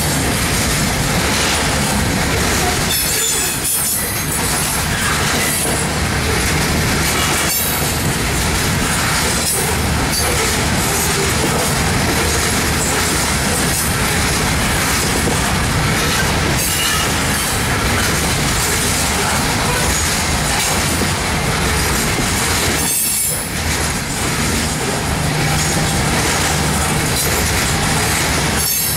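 A train of American Refrigerator Transit refrigerated boxcars rolling past at close range: a steady rumble of steel wheels on rail, with clicks as wheels cross rail joints and at times a high wheel squeal.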